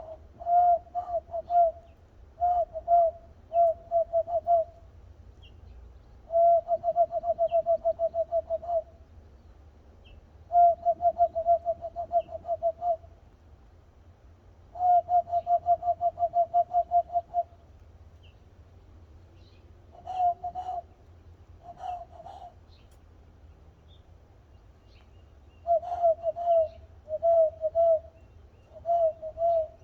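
A person making owl-like hoots by blowing into cupped hands, all on one pitch: short groups of notes and three longer, fast stuttering runs of about five notes a second, with pauses between.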